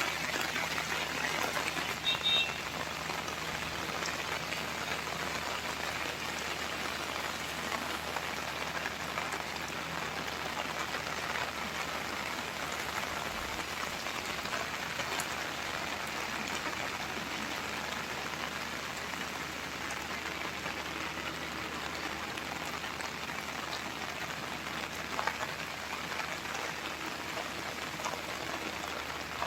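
Steady rain falling, a continuous even hiss of raindrops on surfaces.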